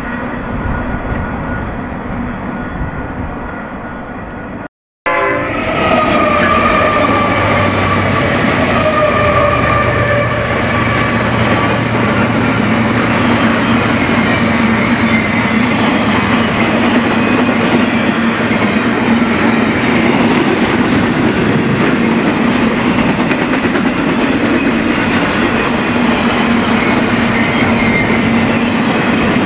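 Freight trains passing: the steady rolling noise of one train cuts off abruptly about five seconds in, then a BNSF train's locomotive horn sounds, its pitch dropping slightly as the locomotives pass, over a low diesel drone. The cars follow with a steady rumble and clickety-clack.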